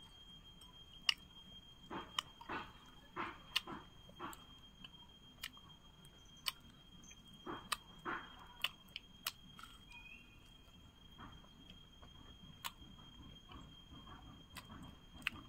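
Faint chewing and crunching of homemade fried chicken, with irregular short crunches and clicks scattered through.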